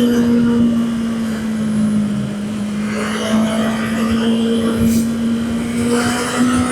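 Honda CB650R's inline-four engine running at fairly steady revs while riding, over a rush of wind noise. The engine note sags slightly about two seconds in and climbs a little near the end.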